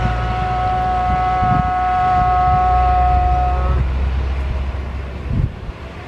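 Jet airliner engines running: a steady high whine over a deep, loud rumble. The whine cuts out about four seconds in while the rumble goes on, with wind on the microphone.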